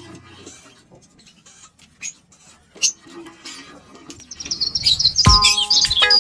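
Pet lovebirds chirping: a few scattered short chirps, then a dense, loud run of high twittering from about four seconds in.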